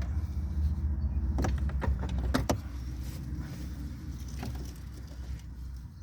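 Small clicks and rattles of hand tools and plastic parts being handled behind a truck's dash, two quick clusters in the first half and one more click later, over a low rumble that fades after about two and a half seconds.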